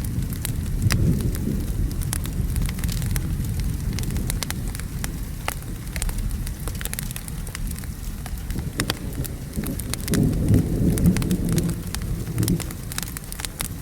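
Steady rain with a low rumble of thunder that swells about ten seconds in, over a crackling fire whose sharp pops and snaps are scattered throughout.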